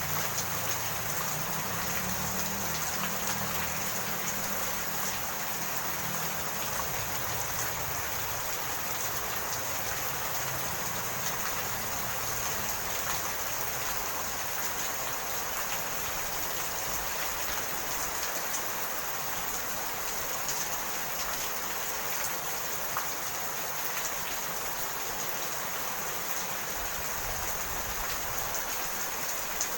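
Steady rain falling, an even hiss with scattered faint drop ticks. A low rumble under it fades out over the first few seconds.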